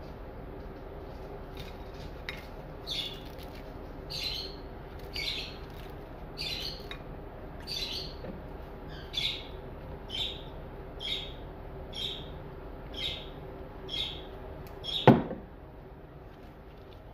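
A bird chirping over and over, a short high chirp about once a second, over a steady low hum. A single sharp knock comes near the end.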